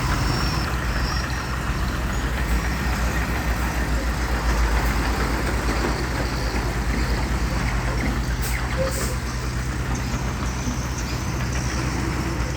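Heavy diesel engine of earthmoving machinery running steadily with a low, even throb.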